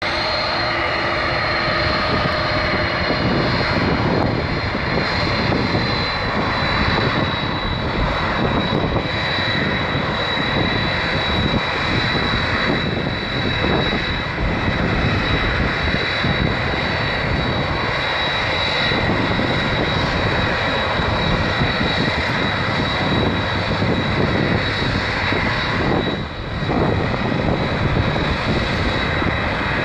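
Boeing 767 jet engines running steadily: a continuous rushing noise with a constant high-pitched whine, dipping for a moment near the end.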